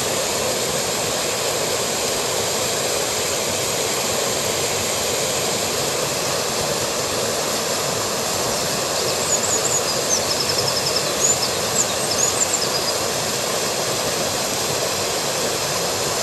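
Steady rushing of a mountain headwater stream's water, with a small bird chirping and trilling high above it for a few seconds midway.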